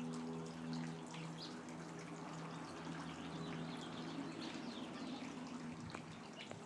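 Water trickling steadily, with faint short high chirps over it.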